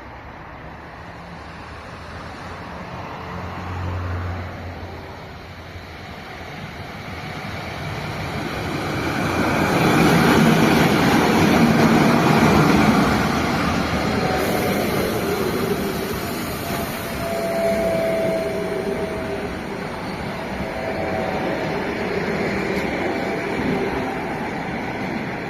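Passenger train hauled by an ЭП2К (EP2K) electric locomotive approaching and passing. The rumble builds and is loudest about ten seconds in, then carries on as the coaches roll by, with a brief faint wheel squeal partway through.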